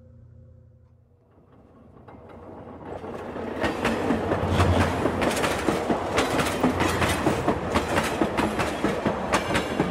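Train wheels clattering over rail joints, fading in over the first few seconds to a steady, rapid clickety-clack.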